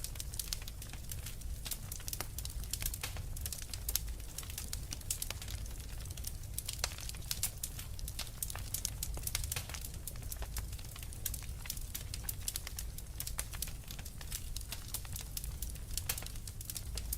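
Wood fire crackling in a fireplace: many small irregular pops and snaps over a low steady rumble.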